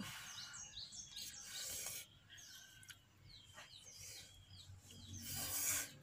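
Small birds chirping: many short, quick calls, with a soft hiss rising near the end.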